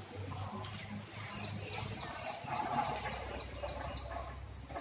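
A bird chirping: a quick run of short, high, falling notes, about four a second, starting about a second and a half in, over a steady low hum.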